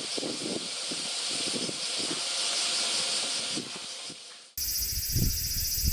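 Steady rushing hiss of heavy rain and runoff water. It fades and cuts off about four and a half seconds in, and a different outdoor recording follows with low irregular knocks and a high buzz.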